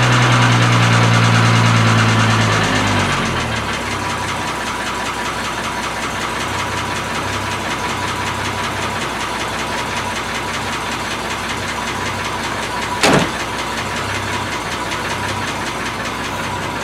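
Triumph TR6's straight-six engine running cold just after its first start following winter storage: for the first three seconds it runs faster and louder, then drops to a steady idle. A single sharp click sounds about 13 seconds in.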